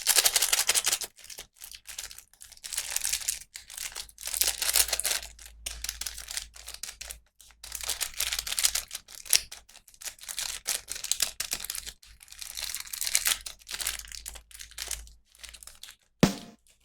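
Packaging crinkling and tearing in irregular bursts as a toy is unwrapped, stopping about a second before the end.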